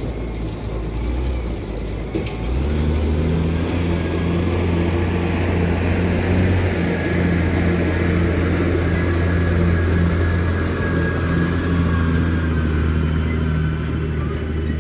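Heavy diesel truck engine running steadily; about two and a half seconds in it grows louder and fuller, as under load, and holds there.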